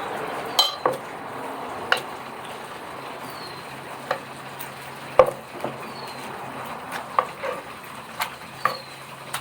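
Pestle knocking and mashing in a mortar as papaya salad with cherry tomatoes is pounded, in irregular knocks about once a second, the loudest about five seconds in. Underneath, a steady sizzle of chicken wings frying in oil.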